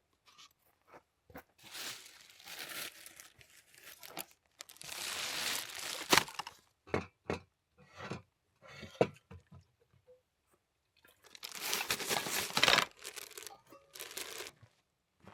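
Camping gear being packed up: crinkling, crunching and rustling of bags and packaging in three longer stretches, with scattered knocks and clicks between them.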